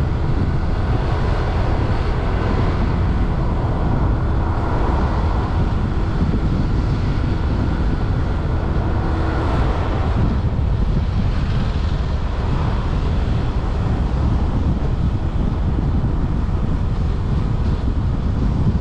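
Wind rushing over the microphone of a moving motorbike, with the steady hum of its engine and road noise underneath.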